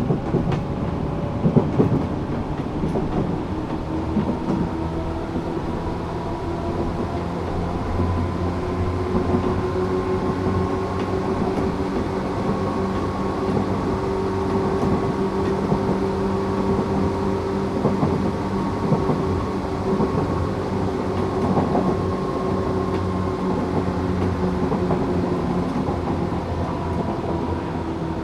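Tokyu 8500 series electric train running at speed: a steady hum from its Toyo-made traction motors over rolling wheel-on-rail rumble, with a few sharp rail-joint clicks in the first two seconds.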